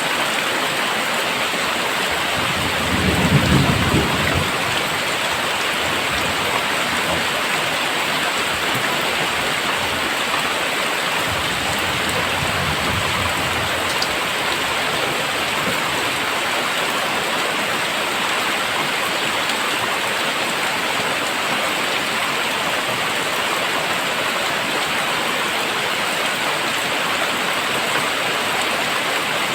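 Very heavy, steady downpour, with a low rumble of thunder about three seconds in and a fainter rumble a few seconds before the halfway point.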